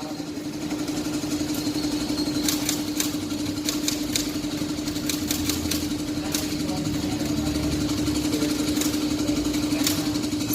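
Small motorcycle engine idling steadily with an even, fast pulse, with a few light clicks over it.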